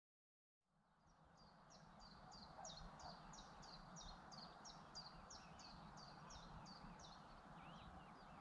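Faint outdoor birdsong: a small bird repeating a short, high, falling note about three times a second for several seconds, over a quiet steady background hiss. It fades in after a brief silence.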